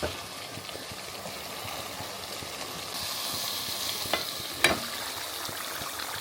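Curry frying and sizzling in a pan as it is stirred, getting a little louder about three seconds in, with two sharp clinks of the spoon against the pan near the middle.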